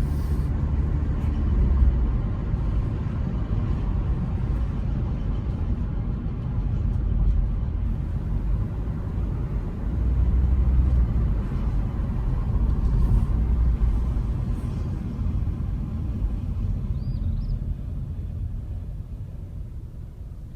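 Honda HR-V driving along a road, a steady rumble of tyres and engine, getting quieter toward the end. Its brake rotors are rusted from two weeks of sitting, but no distinct rotor rubbing stands out above the road noise.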